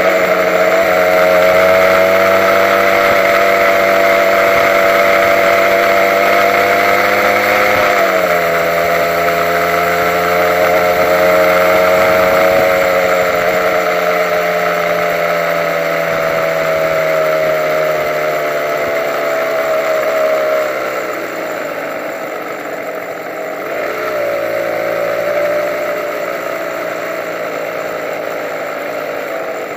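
Honda NSR150's single-cylinder two-stroke engine running at low speed in traffic, its pitch dipping and picking up again about eight seconds in, then easing down through the second half with a brief rise near the end.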